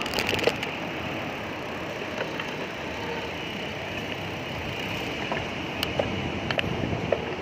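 Steady road and traffic noise heard from a moving bicycle, with scattered small clicks and rattles.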